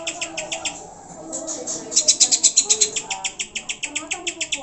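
Greater green leafbird (cucak hijau) singing a fast, even string of high chattering notes, about ten a second. The string breaks off about a second in and starts again, with softer, wavering lower whistles underneath.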